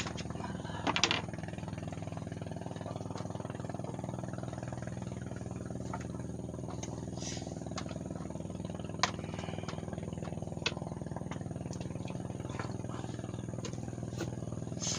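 An engine running steadily at an even speed, with a few sharp clicks over it.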